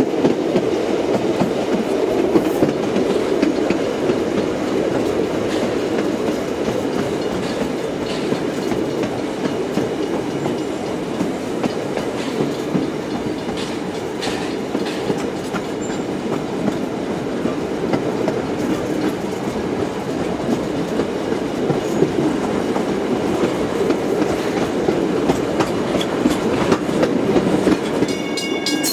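Passenger carriages of a steam-hauled heritage train running along the track, heard from a carriage window: a steady rumble with the clatter of wheels over the rail joints.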